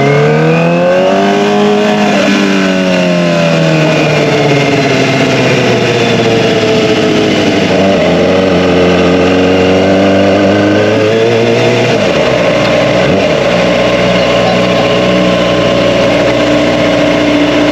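Kawasaki ZX-25R's 250 cc inline-four running loud through an Akrapovic Evolution exhaust. It climbs in pitch over the first two seconds, falls away, then rises again about eight seconds in, and settles to a steady high note for the last few seconds.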